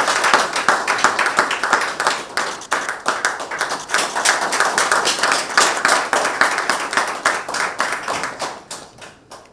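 Audience applauding, a dense round of hand clapping that thins out and dies away near the end.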